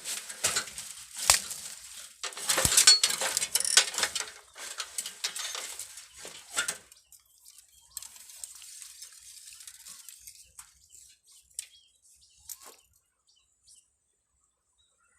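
A close flurry of rustling, clicks and snaps, loudest about three seconds in, thinning to scattered faint ticks after about seven seconds and fading out near the end.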